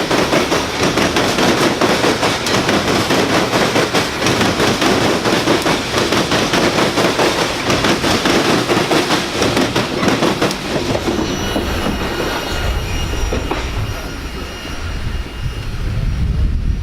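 Loaded coal train's steel wheels clattering rapidly over rail joints as the cars roll past, with a faint high wheel squeal. The clatter thins out about two-thirds of the way through, leaving the squeal and a low rumble.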